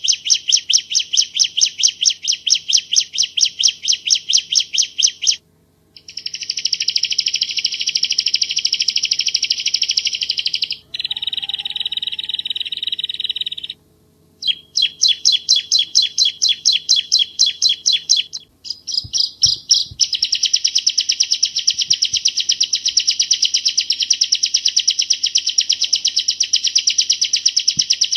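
Bar-winged prinia (Ciblek Jawa) singing long runs of rapid, sharp repeated high notes, phrase after phrase with brief pauses between. A faint steady low hum lies underneath.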